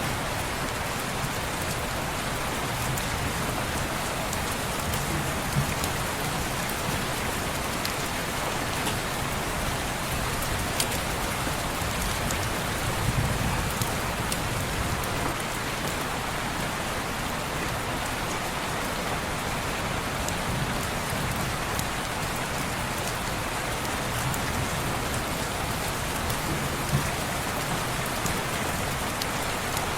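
Steady rain falling on window glass, an even hiss with a few sharp single taps scattered through it.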